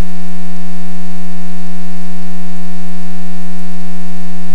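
Loud, steady electrical buzz in the intercom and radio audio, held at one unchanging low pitch with a long row of overtones.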